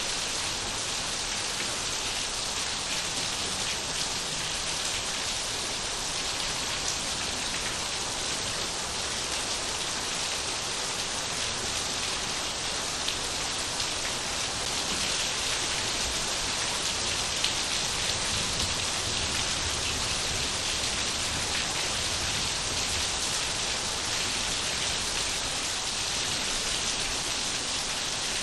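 Steady, dense rainfall, with drops hitting surfaces.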